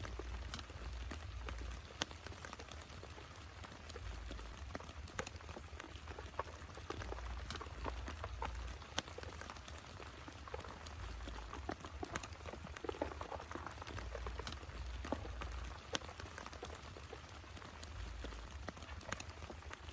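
Heavy rain falling, with a steady hiss and many single drops ticking sharply on a nearby surface, over a low rumble.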